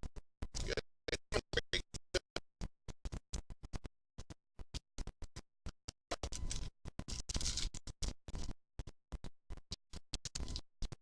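Badly broken-up recording audio that cuts in and out several times a second, leaving only short scraps of noise between dropouts. It is denser in the stretch from about six to eight and a half seconds in. The stuttering is the fault of a bad audio feed.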